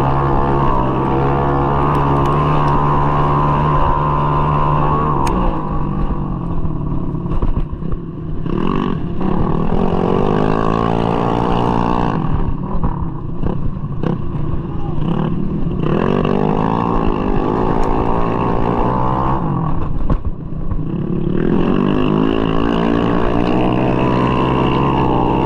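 Bored-up 200cc Mahindra Rodeo scooter engine running hard on a race track, held at high revs, then backed off three times and revved back up in rising sweeps, as when easing off for corners and accelerating out.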